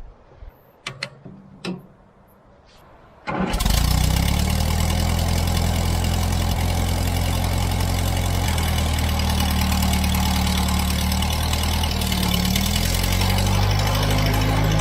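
A few light clicks, then a little over three seconds in the David Brown 30 tractor's engine comes in suddenly and runs steadily, its speed rising and falling a few times.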